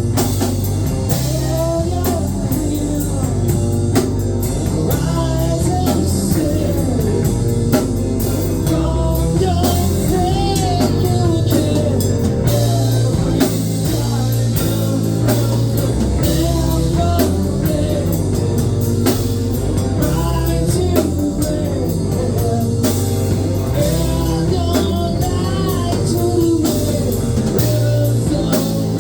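Rock band playing a song, with guitar and drum kit, at a steady loudness.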